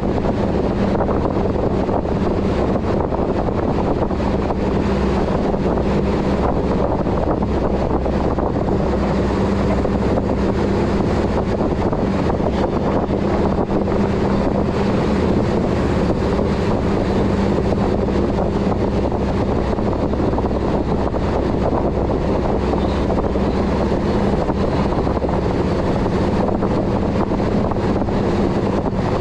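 A boat's engine drones steadily under way, a constant low hum, with water rushing past the hull and wind buffeting the microphone.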